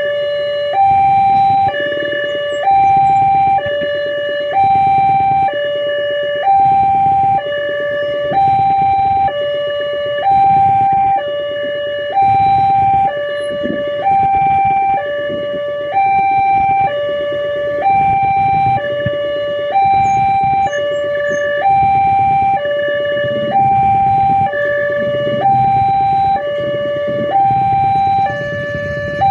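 Railroad level-crossing warning alarm sounding steadily: two electronic tones, a higher and a lower, alternating about every 0.85 s. A low rumble runs underneath.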